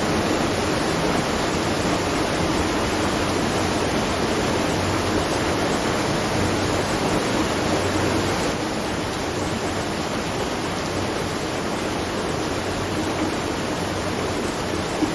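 Steady rush of falling water at a watermill, an even, unbroken noise.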